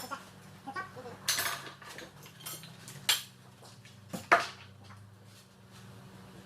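Several separate metallic clinks and knocks, like tools or metal parts being handled and set down during engine work, the loudest a little over four seconds in, over a steady low hum.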